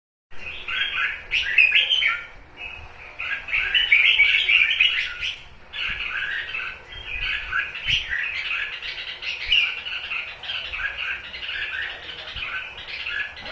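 Red-whiskered bulbul giving rapid, continuous chirping 'túc túc' calls, the call bird-keepers play to stir bulbuls to sing and fight.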